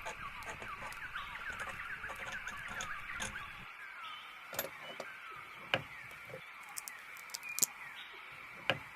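Small birds chirping in quick runs of short notes, denser in the first half, over a steady high hiss. A few sharp clicks fall in the second half.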